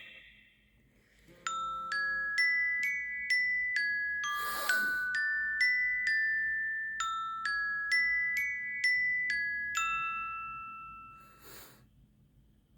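Old iPhone ringtone: a melody of struck mallet-percussion notes, about two a second, each ringing out and fading. There is a soft whoosh about five seconds in and another near the end.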